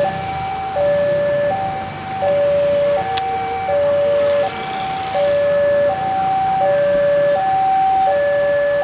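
Railway level-crossing warning alarm sounding a two-tone high-low signal, each tone held for about three quarters of a second, repeating steadily. This warns that a train is approaching. A faint low rumble runs under it for part of the time.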